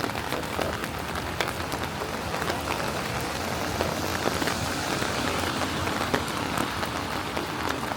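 Steady rain falling, with many close drops ticking sharply.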